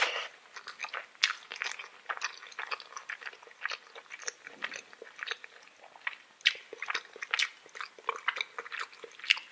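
Close eating sounds: chewing and crunching, with many quick irregular crunches and smacks.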